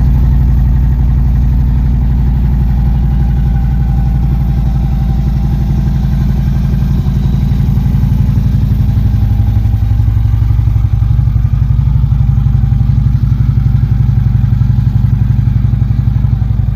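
Harley-Davidson Road King's Twin Cam V-twin engine idling steadily, warming up from cold.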